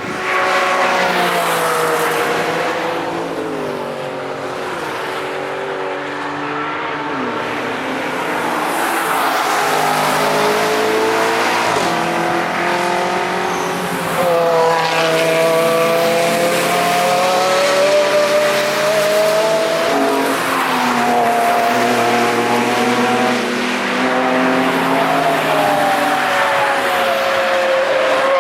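Cars passing one after another at speed, their engines revving with pitch rising and falling through gear changes, several at once overlapping.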